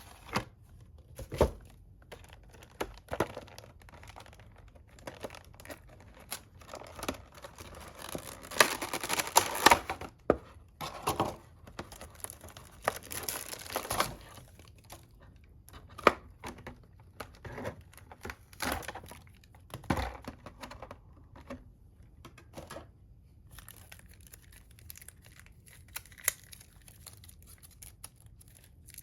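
Packaging of a boxed figure being handled, crinkled and torn open, with irregular clicks and taps and two longer stretches of rustling about eight and thirteen seconds in.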